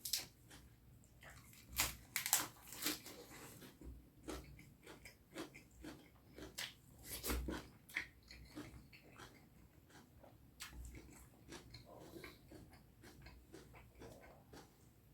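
Close-miked mouth sounds of a person eating curry and rice: irregular wet smacks, clicks and chewing, with a few louder smacks about two seconds in and again around seven seconds.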